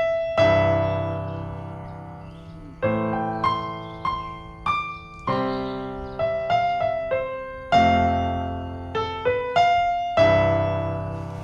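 Background piano music: a slow melody of struck notes and chords, each ringing and fading before the next.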